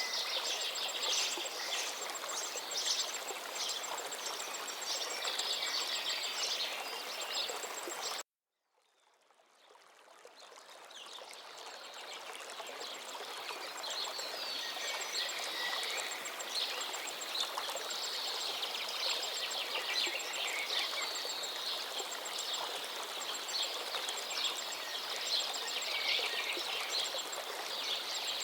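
A forest river running steadily, with many songbirds chirping and singing over it. About eight seconds in the sound cuts out abruptly, then fades back in over several seconds.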